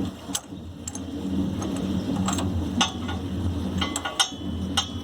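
Irregular metallic clicks and clinks from a wrench working the spark plug out of a small generator's cylinder head, over a steady low hum.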